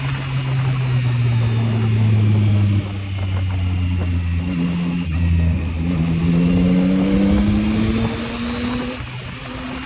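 Yamaha MT-09's three-cylinder engine running under way: the engine note holds, drops about three seconds in, then rises steadily from about six seconds as the bike accelerates, and eases off near the end.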